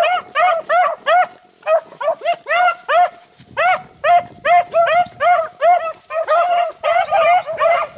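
Rabbit-hunting hounds baying steadily on a rabbit's trail, with loud arching calls coming two or three a second. More dogs' voices overlap in the second half as the pack comes close.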